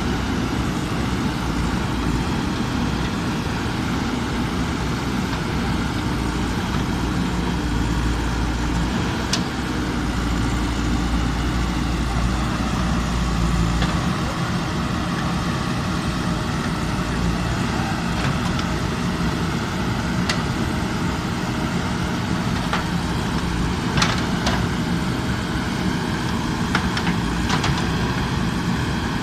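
JCB backhoe loader's diesel engine running steadily as it works, with a handful of short, sharp knocks scattered through.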